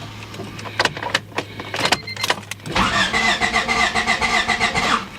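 1993 Honda Civic's starter cranking the engine in a steady rhythm without it catching. The crank-no-start is caused by no spark, traced to a faulty ignition coil. There are a few clicks in a short pause, then a second cranking attempt of about two seconds that also fails to start.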